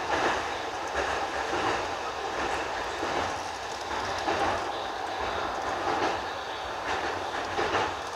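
JR East E233/E231 series electric commuter train running on the line, heard from inside the train: a steady rumble of wheels on rail with several irregular clacks as the wheels cross rail joints.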